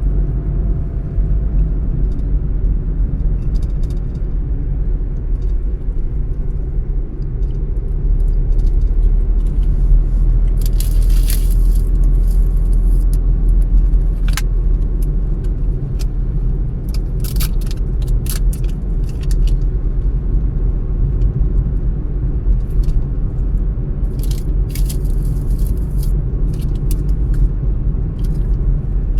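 A car driving along, its engine and tyres making a steady low rumble, with scattered short rattles and clicks coming and going from about a third of the way in.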